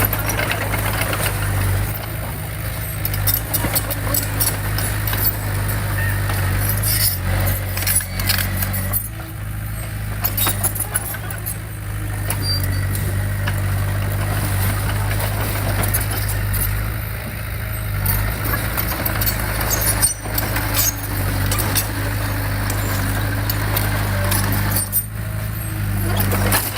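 Heavy diesel earthmoving equipment running steadily with a deep engine drone, overlaid with intermittent metallic clanks and rattles.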